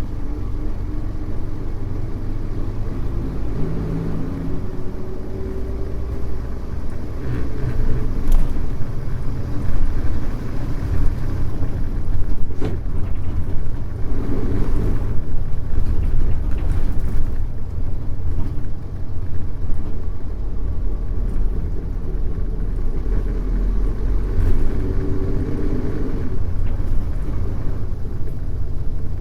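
Mitsubishi Fuso U-MK618J route bus's diesel engine running under way, heard inside the cabin: a steady low rumble with the engine note swelling and fading several times as the bus pulls and eases off, and a few light rattles and clicks.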